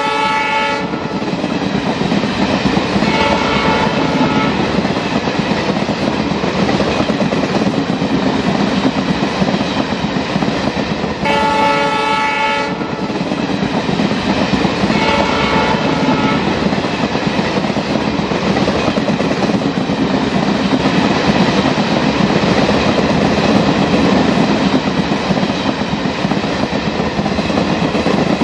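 A train running with a steady rattling rumble of wheels on track, and a multi-note train horn blowing four times in the first sixteen seconds, loudest at the start and about eleven seconds in.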